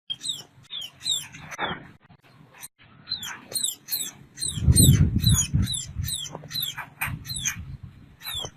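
A bird calling over and over with short, high, downward-sliding chirps, about two a second. A louder low rumble comes in about halfway through, lasting about a second.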